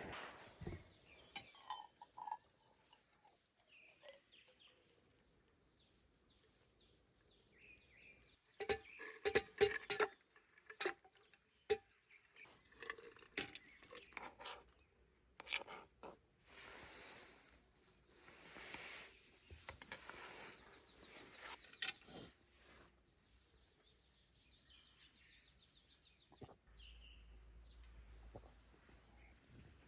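Scattered clicks, knocks and rustles of objects being handled, busiest in the middle, with faint bird chirps at the start and again near the end.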